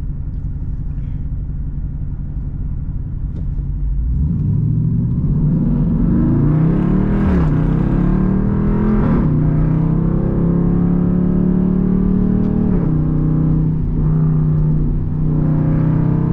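Straight-piped Jeep Grand Cherokee SRT's HEMI V8 exhaust running steadily, then about four seconds in opening up into a hard pull. The revs climb, drop at an upshift, climb again and drop at a second shift, then settle into a steady, loud drone.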